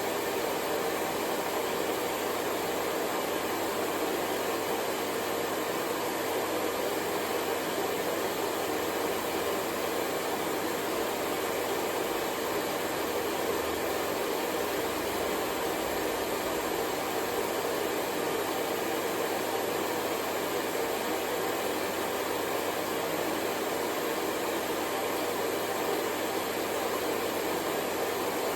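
Hair dryer blowing steadily, a constant whooshing rush of air with a low motor hum, unchanging throughout.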